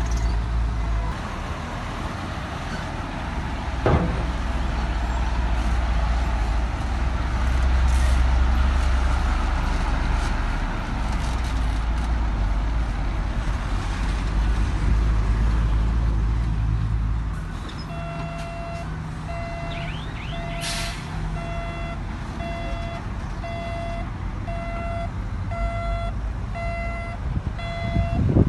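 Heavy diesel earthmoving machinery running under load, with a sharp knock about four seconds in. From about two-thirds of the way in, a back-up alarm beeps steadily, roughly one and a half beeps a second, while a machine reverses, and a short hiss of air sounds briefly soon after.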